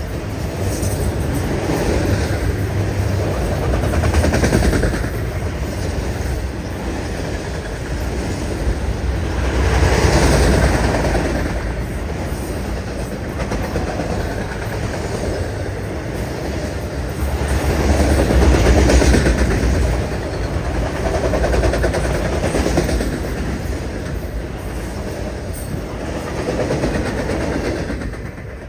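Freight train of enclosed autorack cars rolling past, the wheels rumbling on the rails. The sound swells and fades every few seconds as cars go by, then falls away sharply near the end as the last car clears.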